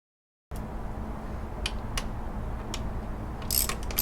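Ratchet wrench clicking as the belt tensioner bolt is turned to tighten the air conditioning belt: a few single clicks, then about three and a half seconds in a run of quick ratcheting strokes.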